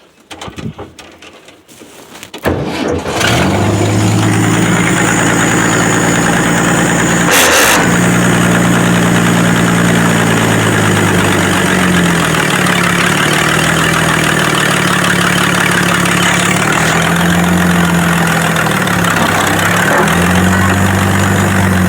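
An old Ford delivery van's engine starts about two and a half seconds in, then runs loudly, its speed dropping and rising several times. A short loud rushing burst comes about seven seconds in.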